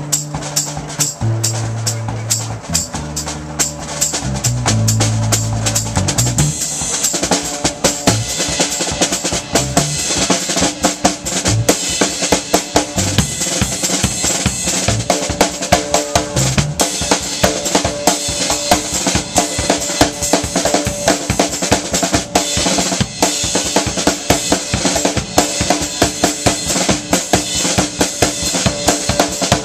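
Live band music led by a drum kit. Low held bass notes change pitch in the first few seconds, then the drums keep up a steady, driving beat of bass drum and snare hits.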